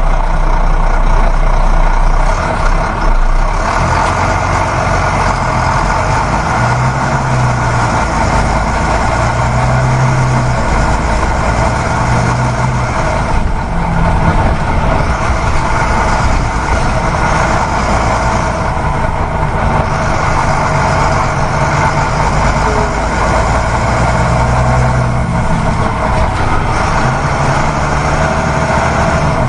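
Heavy vehicle engine running steadily, with a low hum that swells and fades every few seconds.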